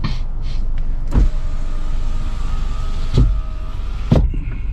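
A car's electric power window motor runs with a steady whine for about two seconds, with a thump as it starts and another as it stops. A further knock comes near the end.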